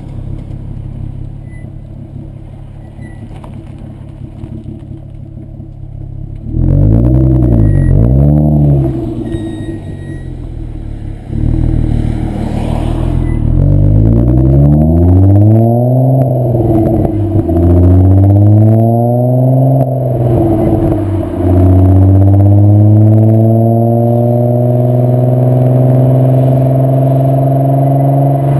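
VW Bora 2.8 VR6 24V engine through a Milltek non-resonated exhaust. It holds a steady low drone at first, then about six seconds in gives a loud rev that rises and falls. From about eleven seconds it accelerates hard through several gears, the pitch climbing and dropping back at each shift, and ends in a long, slow climb.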